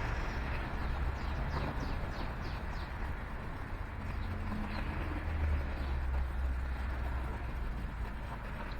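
Small birds chirping: a quick run of short, falling chirps about a second in, and a few more around the middle, over a steady low rumble.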